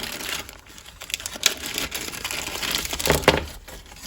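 Crinkling and rustling of the hardware kit's packaging as its parts are handled, with a couple of sharper knocks about one and a half and three seconds in.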